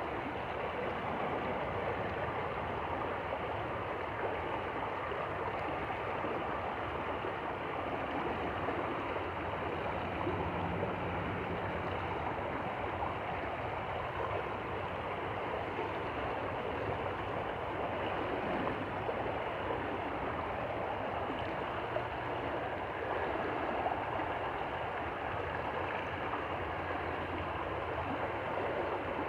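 A stream flowing steadily, an even rushing of water.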